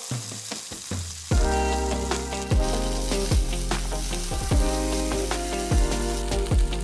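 Diced meat sizzling in hot oil in a nonstick wok, stirred with a plastic spatula. Background music with a steady beat plays over it.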